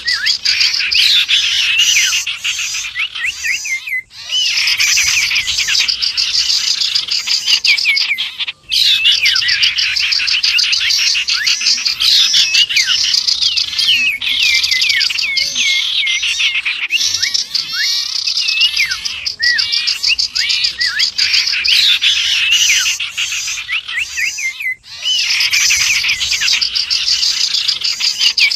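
Dense mixed chorus of small songbirds chirping and calling over one another, built around the common iora (cipow): a bird-luring track of the kind played to draw birds in. The chatter drops out for a split second three times.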